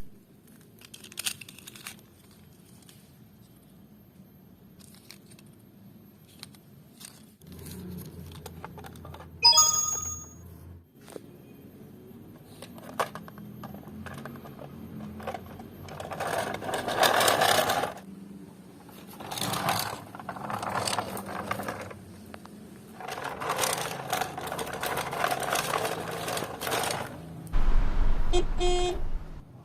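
Toy cars and trucks being handled: scattered plastic clicks and knocks, with stretches of scraping and rustling in the second half and a short electronic beep about ten seconds in.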